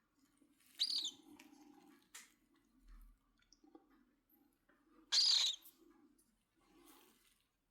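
Cockatiel giving two short, harsh high calls, one about a second in and a louder one about five seconds in, with a faint low murmur between them.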